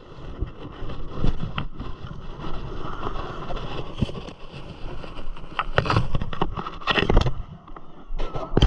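Wind buffeting the microphone over a low rumble, with several sharp knocks and rattles, as from riding a dirt bike.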